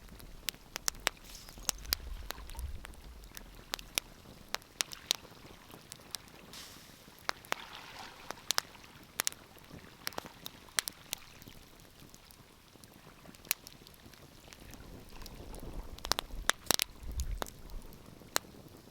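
Wood fire crackling in a fireplace: irregular sharp pops and snaps over a soft hiss of flame, with a cluster of louder pops near the end.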